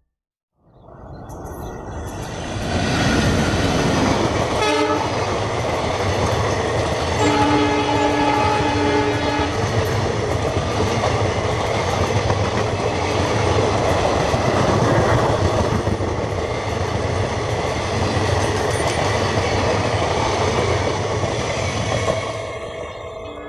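Indian Railways train running past at speed, a steady rumble of wheels on rails that builds over the first couple of seconds and fades near the end. The locomotive horn gives a short blast about five seconds in and a longer chord-like blast of about two seconds soon after.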